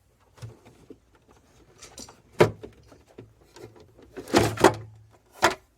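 A series of sharp knocks and clatters from something being handled, the loudest about two and a half seconds in, then a cluster of knocks and one more near the end.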